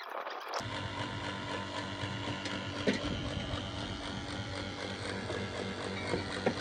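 An electric motor switches on with a sudden start and runs with a steady, even hum. Two faint clicks come through it, one near the middle and one near the end.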